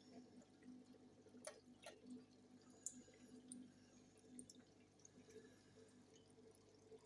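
Near silence: faint room tone with a low hum and a few soft drips or ticks.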